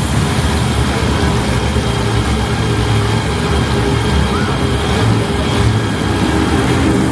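Monster truck engines running loudly, a deep steady engine note.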